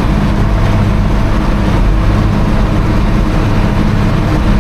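Heavy diesel engine running at a steady speed, a constant low drone with no change in pitch.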